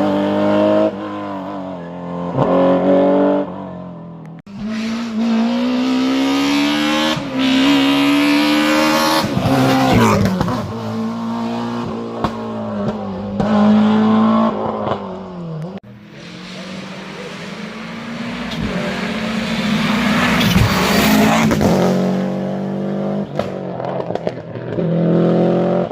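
Historic rally car engines at full throttle, revving up through the gears: the pitch climbs and drops sharply at each shift, several times over as cars pass one after another.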